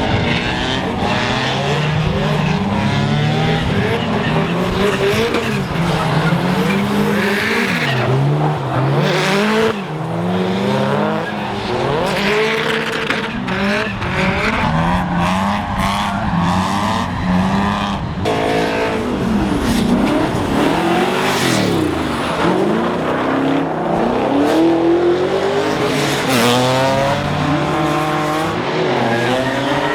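Drift cars' engines revving up and down in repeated swings, with tyres squealing and skidding on a wet track.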